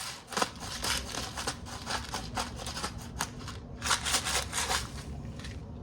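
Irregular small clicks, taps and rustles of kitchen items being handled, with a denser patch of rustling about four seconds in.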